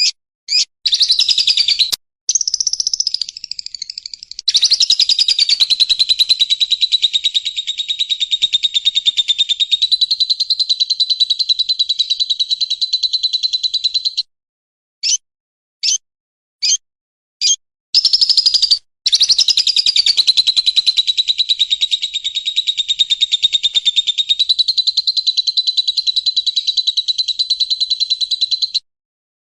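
Recorded songbird song played as tutoring material for cage birds. Short sharp chirps alternate with long, very rapid trills held near one high pitch for ten seconds or more, and the pattern comes round twice.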